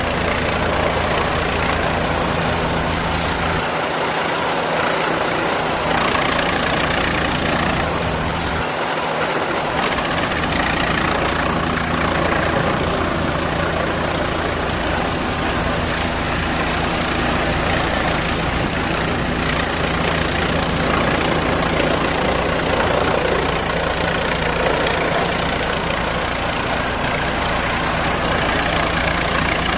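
Helicopter hovering close over a ship's deck without landing, its rotor and engine giving a loud, steady noise with a constant low hum.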